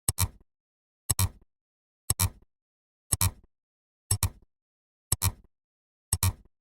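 A sharp double click repeating evenly once a second, seven times, with silence between.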